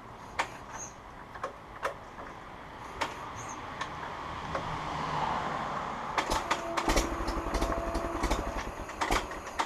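A 1942 Farmall H tractor's four-cylinder petrol-paraffin engine being hand-cranked after years standing, with a few sharp clicks at first. About six seconds in it catches and fires in a rapid run of even pulses for about three seconds: a promising first start.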